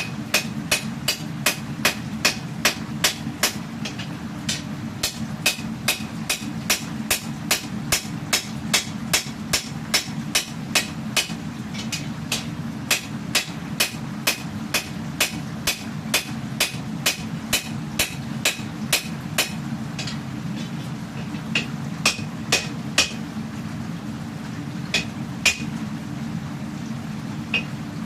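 Hammer strikes on hot steel at the anvil, forging a katana blade: a fast, even run of ringing blows, about two and a half a second, that breaks off briefly about twelve seconds in, stops near twenty seconds, and gives way to a few scattered blows. A steady low rumble runs underneath.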